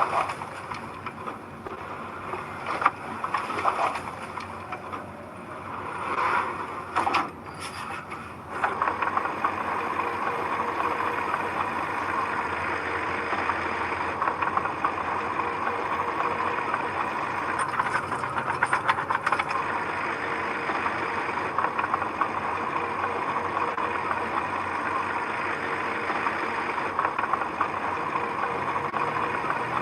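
Heavy construction machine's engine running: uneven for the first eight seconds or so, then steady and louder from about eight seconds in.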